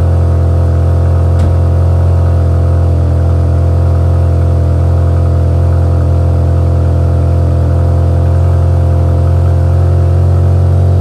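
Volkswagen Passat 1.8T turbocharged four-cylinder engine idling steadily just after a cold start, heard at the exhaust tailpipe.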